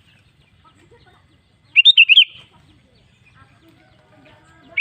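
Sooty-headed bulbul (kutilang) singing: a short, loud phrase of four or five quick notes about two seconds in, and the same phrase starting again at the very end.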